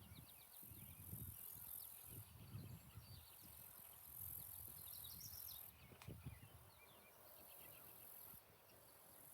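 Faint outdoor ambience: light wind gusting on the microphone, with small birds chirping in short, quick trills now and then and a high insect-like hiss that comes and goes.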